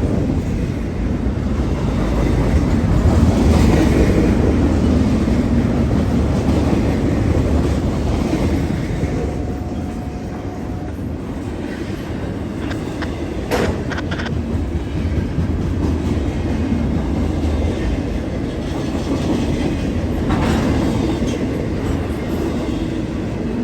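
Freight train rolling past, its cars rumbling steadily with wheels clicking over the rail joints, and a sharp clank about thirteen seconds in.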